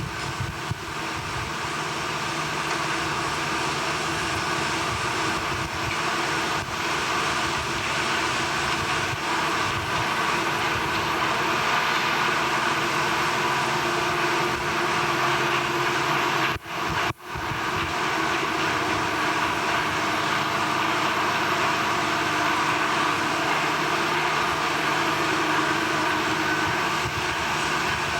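Steady, loud drone of heavy industrial machinery, with several held tones over a dense rushing noise. It cuts out briefly about two-thirds of the way through, then resumes unchanged.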